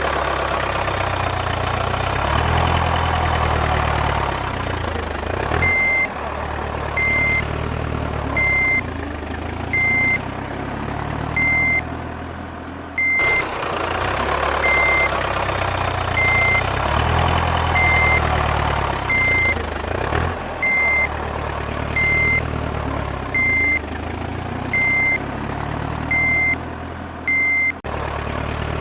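A vehicle engine running, its pitch rising and falling, with a reversing alarm beeping at one steady pitch about every one and a half seconds from about six seconds in.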